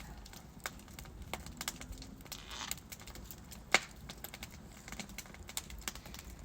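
Wood fire in a fireplace crackling, with irregular sharp pops of burning logs, the loudest a little under four seconds in, and a short hiss about two and a half seconds in.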